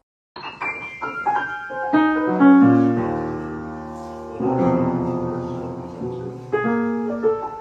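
Piano music: a run of quick notes, then long, full chords with deep bass notes, then quick notes again near the end.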